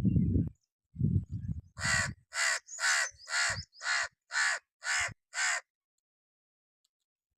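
Crow cawing: a run of eight harsh caws, about two a second, starting about two seconds in and stopping a little past halfway. Before the caws there are low rumbling bursts.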